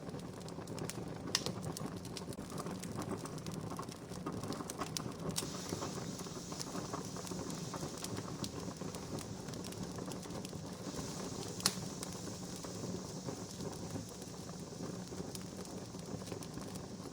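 Wood fire crackling steadily, with a dense run of small crackles and two sharper, louder pops, one near the start and one about two-thirds through.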